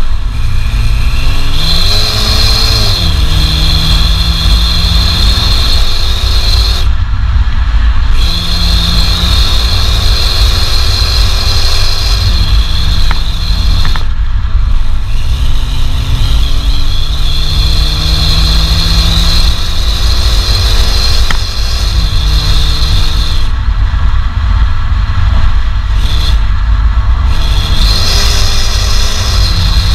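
BMW 120i E88's 2.0-litre naturally aspirated four-cylinder petrol engine pulling under way. Its pitch climbs slowly and drops back several times as the gears change, over a heavy low rumble.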